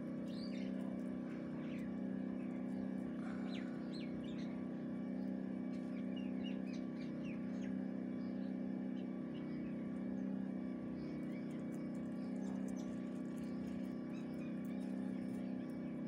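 Birds chirping, mostly in the first half, over a steady low hum.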